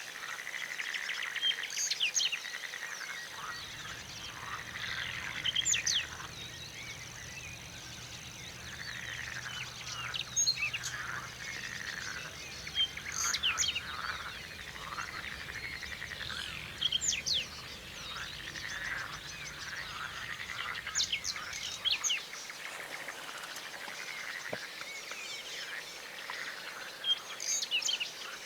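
Spring wetland ambience: many overlapping short calls from frogs and birds, with sharp high chirps now and then. A low steady hum runs under it until it stops about two-thirds of the way in.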